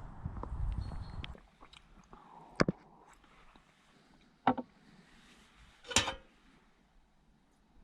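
Close, quiet eating and handling sounds in a small car interior: a low rumble for the first second and a half, then three short crunches or knocks a couple of seconds apart, the last one the loudest.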